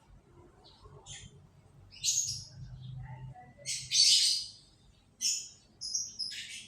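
Canaries chirping and calling in a series of short, high-pitched bursts, with the loudest and longest burst about four seconds in.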